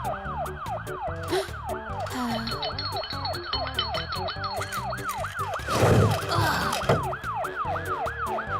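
Cartoon ambulance siren sound effect, a quick repeating falling wail of about three sweeps a second, over background music. A brief loud noisy rush about six seconds in.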